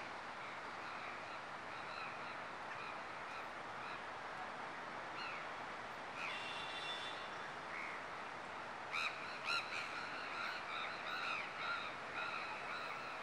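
Short bird calls scattered over a steady background hiss, coming in a quick cluster from about nine seconds in, with a brief buzzy trill a little past the middle.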